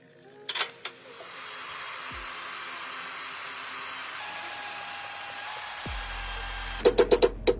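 A power tool runs with a steady hiss for several seconds, then a quick run of loud sharp knocks, several a second, takes over near the end.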